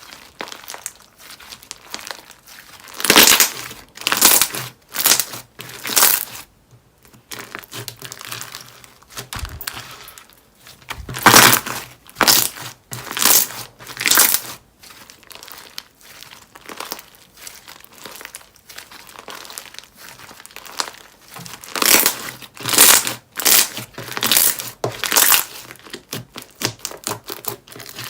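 Slime being squeezed and worked by hand, giving crinkly, crackling squishes in repeated short bursts, with three louder spells of squishing.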